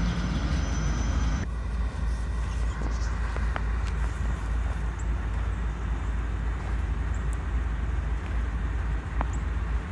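Freight train of tank cars rumbling low and steady, with a few faint clanks; a higher rolling noise drops away abruptly about a second and a half in.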